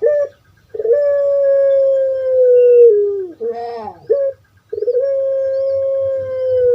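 Puter pelung, a long-voiced domestic dove (Streptopelia risoria), cooing. A short opening note is followed by a long drawn-out note of about two and a half seconds that drops in pitch at its end, then a few short notes. A second long drawn-out note starts near the end.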